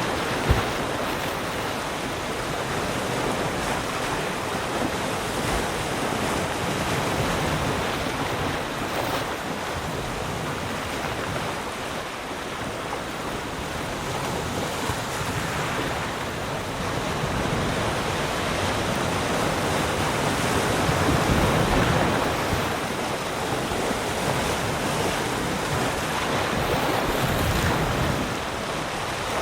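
Sea surf: waves breaking and washing up the shore in a continuous wash that swells and eases every several seconds, loudest about two-thirds through. A brief sharp knock sounds just after the start.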